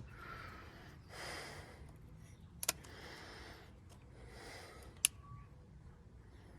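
A person breathing through the nose in soft puffs while working on a truck door latch. Two sharp clicks, about two and a half seconds apart, come from the latch parts being handled with a tool.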